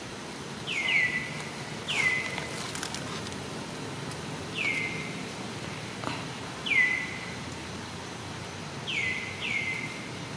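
A bird calling repeatedly: seven short whistled calls, each dropping quickly in pitch and then holding a moment on a lower note, two pairs of them coming close together, over a steady outdoor background hum.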